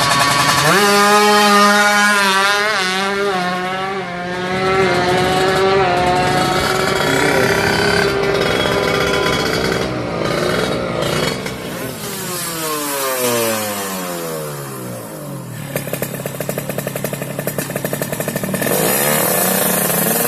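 Kawasaki Ninja 150 two-stroke single-cylinder engine being revved. It climbs sharply about a second in and is held high and wavering for several seconds. It then falls away into a rapid, uneven idle and is revved up again near the end.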